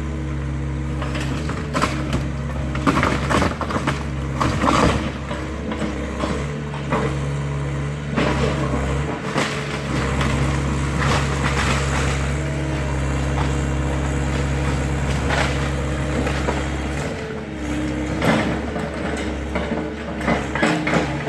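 Excavator's diesel engine running steadily while its bucket crushes and breaks apart a wooden garage, with repeated cracks and crashes of splintering wood.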